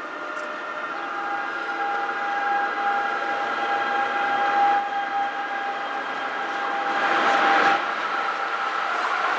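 Amtrak electric train, an ACS-64 locomotive hauling coaches, approaching at speed on the Northeast Corridor: a rushing noise that grows steadily louder, with steady high-pitched ringing tones over it.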